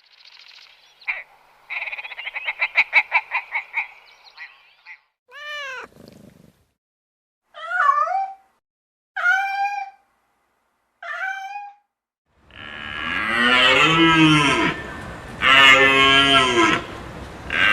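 A run of different animal calls: a fast rattling trill of about eight pulses a second, then a handful of short separate calls, then long, loud, low calls with rich overtones over the last five seconds.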